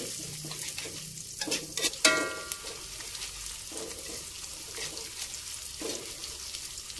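Sliced shallots and garlic sizzling in hot oil in a metal wok, sautéed until fragrant, while a metal spatula stirs them with scrapes and a few knocks against the pan about a second or two in.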